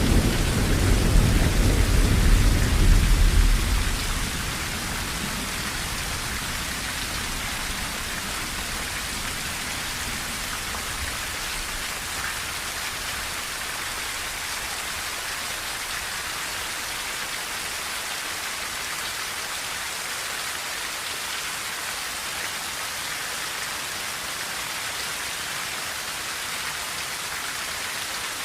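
Steady rain falling on a tin roof. A low thunder rumble carries on from before and dies away about four seconds in.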